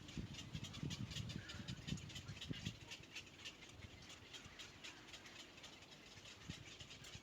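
Dove chick begging at the nest, a fast run of short high cheeps several times a second, with soft low thumps clustered early on.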